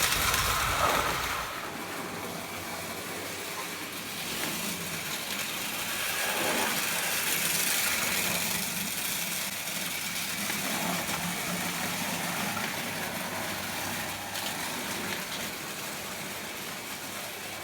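Prewar Lionel O gauge toy train running steadily along its track: a continuous mechanical rolling hum from the motor and wheels, a little louder for the first second or so.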